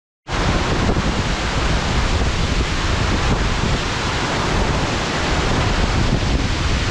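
Waterfall pouring into its pool: a loud, steady rush of falling water, coming in about a quarter second in, with wind at the spot adding to it.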